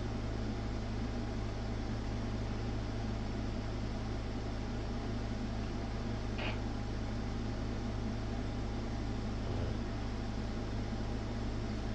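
Steady low hum with an even hiss from running equipment, unchanging throughout, with one faint short sound about six and a half seconds in.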